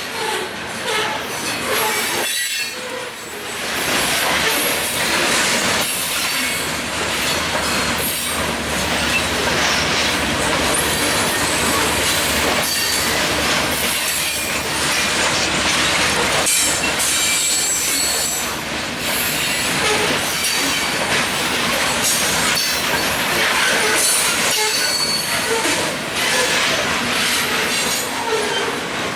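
Freight train rolling past at close range, its steel wheels squealing against the rails in a steady, loud clatter.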